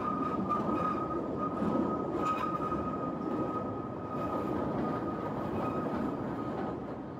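Kurobe Gorge Railway narrow-gauge open-air train rolling along the track, with a steady high-pitched whine running through the rolling noise. It grows a little quieter near the end.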